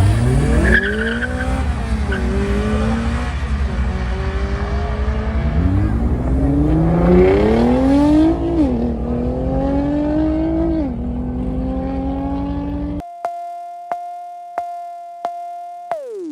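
A car engine accelerating hard, its pitch climbing and dropping back at each upshift, three shifts in all. About thirteen seconds in it cuts off abruptly to a steady electronic tone with regular clicks.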